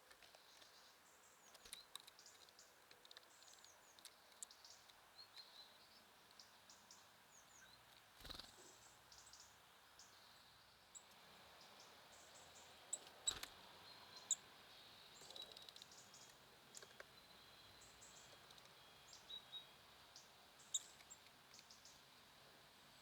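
Faint chirps and short calls of small songbirds at a feeder, scattered through the whole stretch, with a few sharp taps among them.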